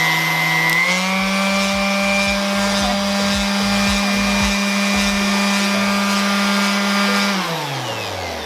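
Bauer random orbital sander's electric motor running at a high setting of its speed dial, its hum stepping up in pitch about a second in as the speed is turned up. Near the end it is switched off and winds down, the pitch falling steadily.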